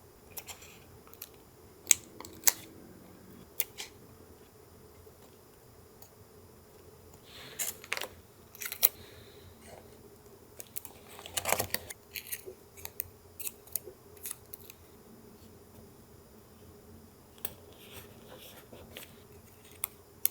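Hand paper-crafting sounds for a junk-journal collage: irregular sharp clicks and taps with short bursts of paper rustling and handling, busiest around the middle, over a faint steady hum.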